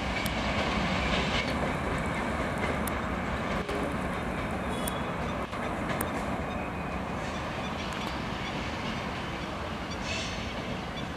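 Shatabdi Express passenger coaches running past at speed, a steady rumble of wheels on rail with a few sharp clicks through it: the 'tan tan – tan tan' sound of the wheels striking the rail joints.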